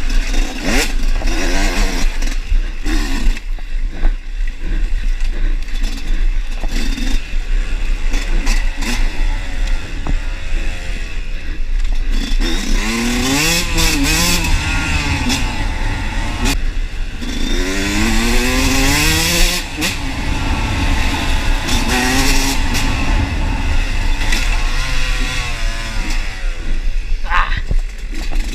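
Enduro motorcycle engine being ridden hard, its pitch climbing and dropping again and again as the throttle opens and closes, with a steady rush of wind noise and some clatter.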